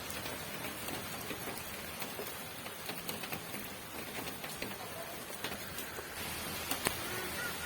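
Steady rain falling, an even hiss with scattered individual drops ticking through it and two louder drop hits near the end.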